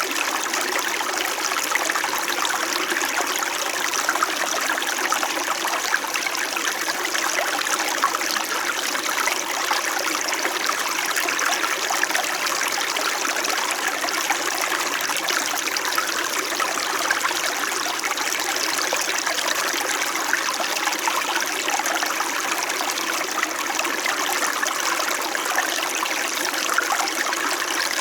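Small mountain stream flowing steadily over rocks, an even babbling and trickling of shallow water.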